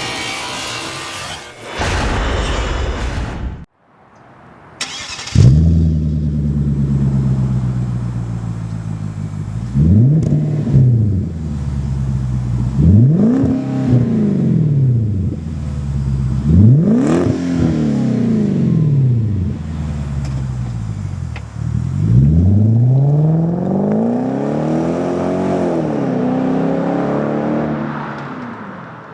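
A loud noisy intro sound for the first few seconds. Then the 2009 Hyundai Genesis 4.6-litre V8 starts through a MagnaFlow aftermarket exhaust, settles into an even idle, and is blipped three times in quick revs. After more idle it is given one longer rev near the end.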